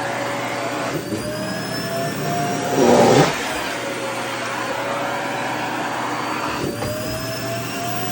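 Vacuum cleaner running and sucking at a skirt's fabric. Its motor whine slowly dips and rises in pitch, with a louder rushing surge about three seconds in.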